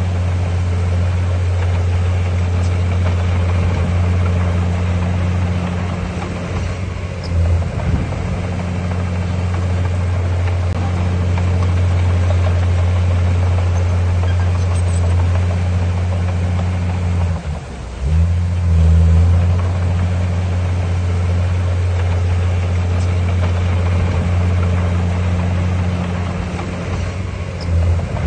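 Heavy diesel engine of earthmoving equipment running steadily with a deep hum. Its note dips and changes twice, about 7 seconds and 17 seconds in, as the load or throttle changes.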